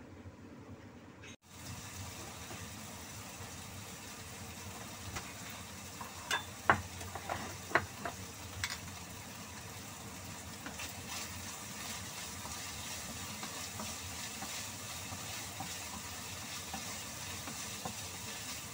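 Chicken pieces sizzling steadily as they fry in a nonstick pan and are stirred with a wooden spatula; the sizzle begins suddenly about a second and a half in. A few sharp knocks stand out around a third of the way through.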